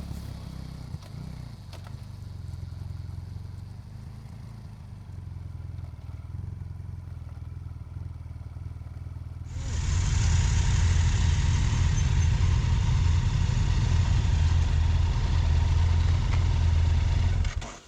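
BMW F800GS Adventure's parallel-twin engine running while riding, with wind rush. About halfway through it jumps sharply louder and rushier.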